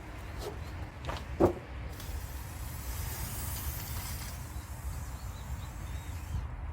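A few short metallic knocks and clinks of parts being handled, the loudest about a second and a half in, over a steady low rumble, with a soft hiss around the middle.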